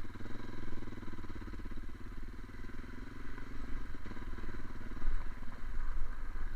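Fiat Strada pickup's engine running and road rumble as heard inside the cab while driving, with a fast even pulsing engine note that eases off about four seconds in.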